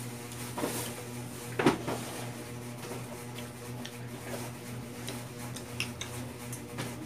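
A person chewing food with soft mouth clicks and smacks, with one louder mouth sound just under two seconds in, over a steady low hum.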